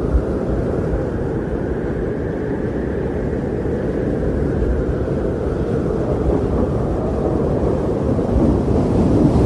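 Strong blizzard wind blowing steadily as a deep, continuous rush with slow swells in its pitch.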